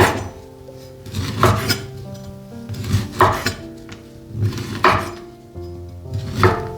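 Dishes and cutlery clattering in short strokes about every second and a half, over soft background music with sustained notes.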